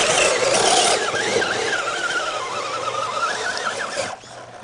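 Electric motor and gear drive of a 1/10-scale RC truck whining, the pitch wavering up and down as the throttle is worked, after about a second of rough scrabbling noise.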